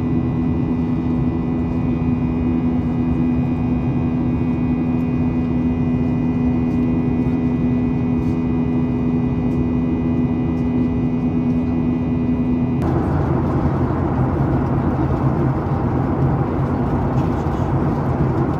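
Cabin noise of a Boeing 737-800 heard from a seat over the CFM56-7B engine: a steady jet drone with a held hum and a higher whine over a rumble. About 13 seconds in, the hum and whine stop abruptly and a rougher, even rush of noise takes over.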